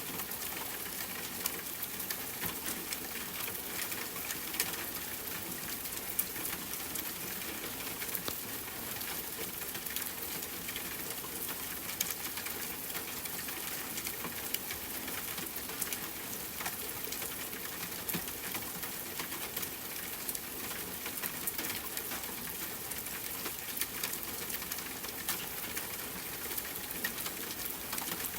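Steady rain falling on a tent, with scattered sharp crackles and pops from a campfire.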